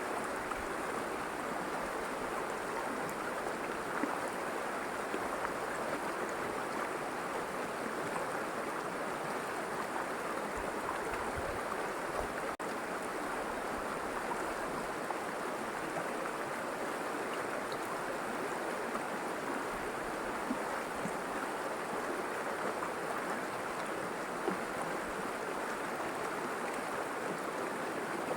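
River water flowing, a steady rushing and babbling, with a momentary cut about halfway through.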